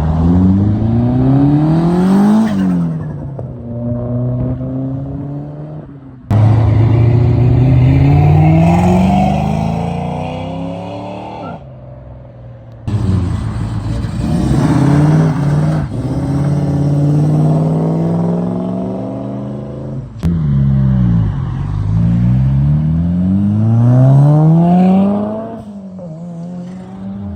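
Car engines revving in a series of short clips cut together, the engine note climbing and dropping again in each clip, with abrupt changes from one car to the next.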